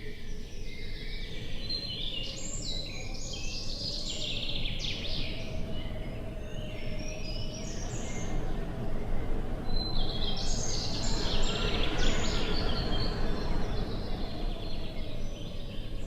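Wind blowing steadily, with songbirds chirping over it in two spells: one starting about two seconds in and another around ten seconds in.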